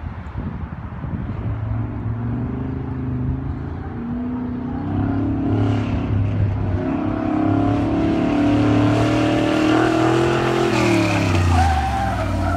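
C3 Corvette's V8 engine running under hard acceleration, its pitch climbing and easing off repeatedly, then dropping sharply about eleven seconds in before climbing again.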